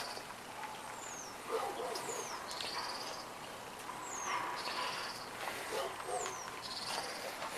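A songbird singing the same short phrase over and over, about every two seconds: a high falling whistle followed by a short buzzy trill.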